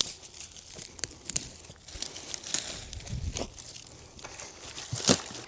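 Dry sticks and leaf litter rustling, with scattered sharp snaps and cracks, as firewood is gathered by hand from the forest floor.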